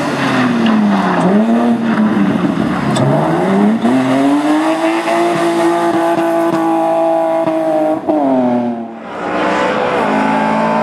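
Rally car engine at full competition pace: the revs fall twice within the first couple of seconds as it slows for a corner, then climb steadily and hold high for about three seconds before dropping sharply about eight seconds in. After a brief dip the engine note comes back at a lower pitch.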